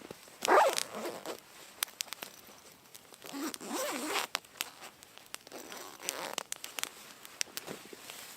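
A zipper being pulled in three strokes: a loud one about half a second in, another around three and a half seconds, and a fainter one near six seconds. Scattered sharp clicks and crackles sound between them.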